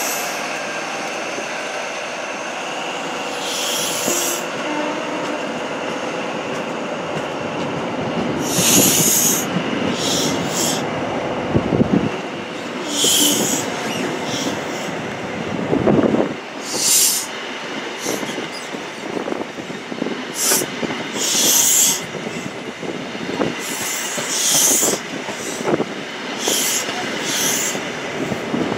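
LNER InterCity 125 (HST) Mk3 coaches rolling past close by, with a steady rail rumble. The wheels give off short, high-pitched squeals again and again, a dozen or so at irregular intervals, with a couple of heavier clunks over the track.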